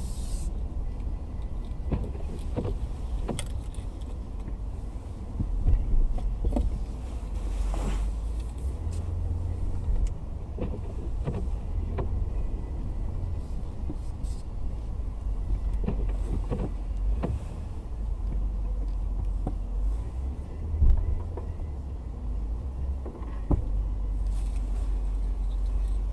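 Car moving slowly through snow, heard from inside the cabin: a steady low engine and tyre rumble with scattered knocks and creaks, and two louder thumps, about six seconds in and near the end.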